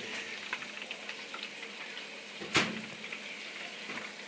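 Chicken pieces deep-frying in hot grease, nearly done: a steady sizzle full of small crackles and pops. One sharp clack is heard about two and a half seconds in.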